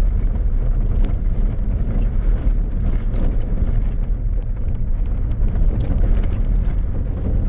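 Four-wheel drive driving along a dirt track: a steady low rumble of engine and tyres, with scattered small knocks and rattles.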